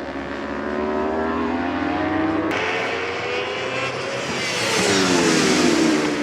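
Endurance racing motorcycle engines at high revs: one climbs in pitch as it accelerates, then after a sudden change another comes close and passes, loudest near the end and dropping in pitch as it goes by.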